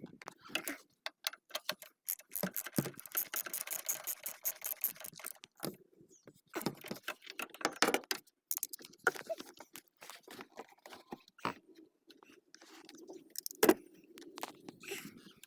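Metal hand tools clinking and rattling, with a dense run of rapid clicks about two seconds in that lasts some three seconds, then scattered single knocks.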